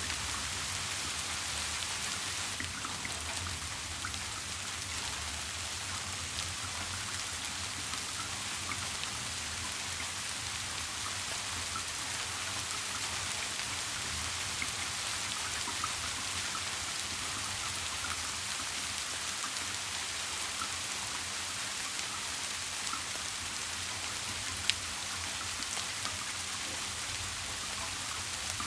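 Steady rain with scattered small drop ticks, over a low steady hum. There is one sharper tick near the end.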